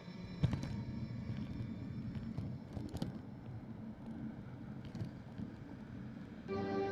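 Wind buffeting the microphone over a low, uneven rumble of riding, with a few sharp clicks and rattles. Music comes in near the end.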